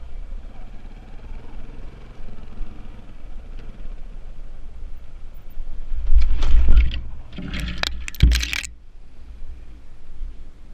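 Dirt bike engine running low and steady, then loud clattering and scraping up close for about two and a half seconds, with a sharp knock near the end of it.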